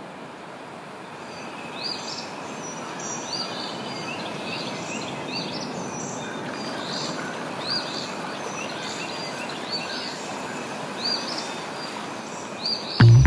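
Small birds chirping over and over in short rising chirps, starting about two seconds in, over a steady rushing background noise. Loud music with a beat cuts in at the very end.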